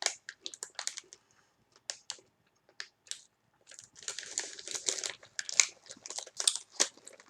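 Crinkling of a snack bag of corn chips being handled, in quick irregular crackles that are sparse at first and come thicker in the second half.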